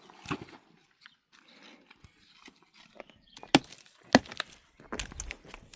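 A few sharp, separate knocks, the loudest two about halfway through and a little later, with quieter scraping and handling noise between them.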